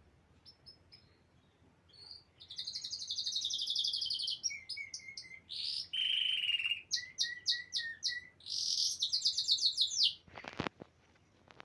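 A songbird singing rapid, high trills and chirps, starting about two seconds in. A couple of short sharp knocks follow near the end.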